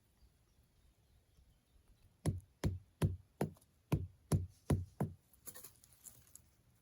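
Eight hammer blows in a steady rhythm, about three a second, each with a short ringing tail that drops in pitch, followed by a little faint rustling.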